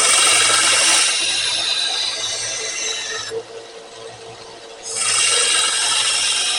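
A motor-driven grinder grinding the bevels of a hardened spring-steel knife blade, a steady hiss of abrasive on steel over the motor's hum. The steel is lifted off about three seconds in and pressed back on about a second and a half later.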